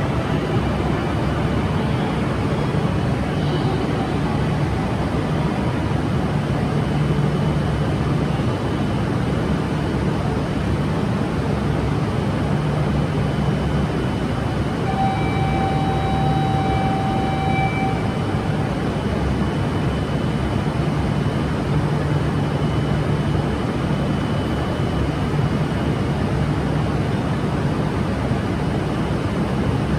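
Steady mechanical rumble and hum of a Shinkansen train at the station platform, even in loudness throughout, with a brief steady electronic tone lasting about three seconds about halfway through.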